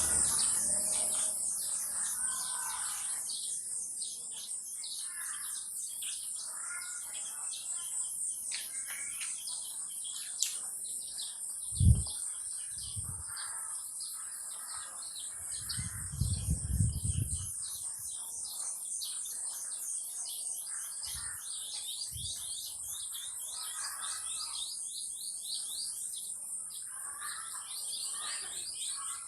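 Wild birds chirping and calling over a constant high-pitched, rapidly pulsing trill. A single dull low thump about twelve seconds in, and a brief low rumble a few seconds later.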